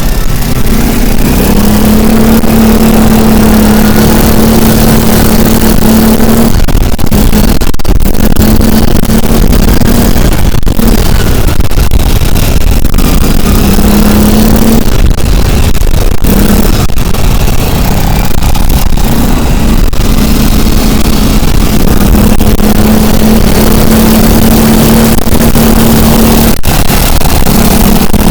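A motor vehicle running steadily: a constant engine drone that comes and goes over loud, dense rumbling road noise.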